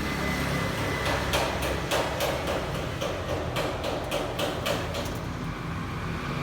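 Steady low rumble with a run of about a dozen sharp clicks or taps, starting about a second in and lasting some three and a half seconds.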